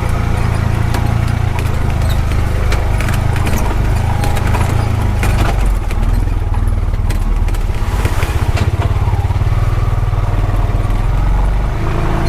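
Honda Pioneer 520 side-by-side's single-cylinder engine running steadily while under way, with scattered knocks and rattles from the vehicle.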